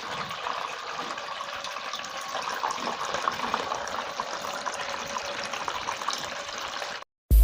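Water falling and splashing steadily in a small tabletop fountain, as a continuous trickle with many small drips. It cuts off suddenly near the end.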